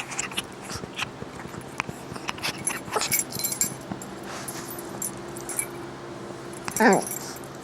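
A pet dog at play: light jingling with scattered clicks and taps. Near the end comes one short, loud squeal that falls steeply in pitch.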